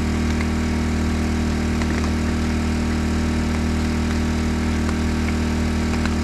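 Portable generator engine running steadily at a constant speed.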